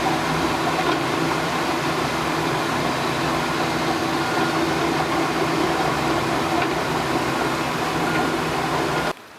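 Steady vehicle running noise, engine hum under a wide hiss, which cuts off abruptly about nine seconds in.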